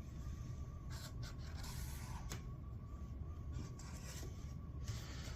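Metal scribe scratching along sheet metal in light, intermittent strokes, tracing the outline of one cut piece onto another.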